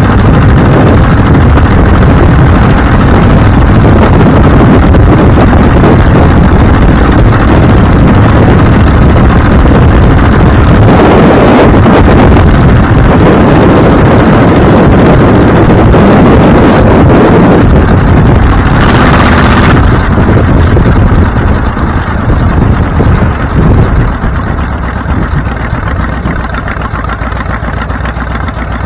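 A vehicle engine running under way, with heavy road and wind noise. Around three quarters of the way through it eases off and settles to a steadier, quieter engine hum, as at idle.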